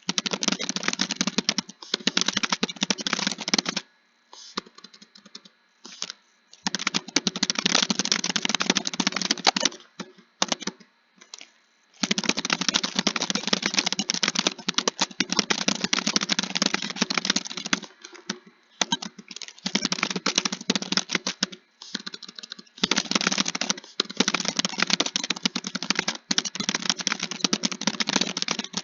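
Fast typing on a computer keyboard. It comes in runs of dense key clicks a few seconds long, each run broken off by a short pause.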